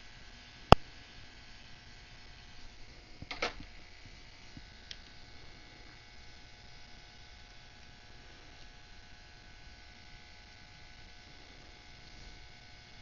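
A sharp click, then a brief cluster of small clicks and a faint tick from hands and tools working on a dropped iPod Touch, over a steady electrical hum.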